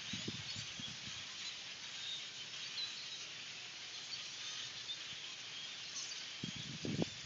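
A flock of small birds chirping and chattering together, a dense continuous twitter of many overlapping calls. A few brief low bursts of sound come just after the start and again near the end.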